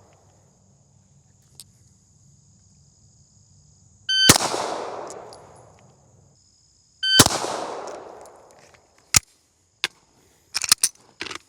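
Two handgun shots about three seconds apart, each with a long echoing tail: slow single shots of a one-shot return drill. A few short clicks and knocks follow near the end.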